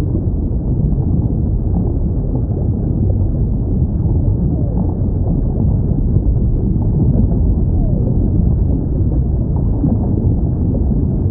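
Underwater recording of whales: a steady low rumble of sea noise with faint, short gliding whale calls rising and falling now and then.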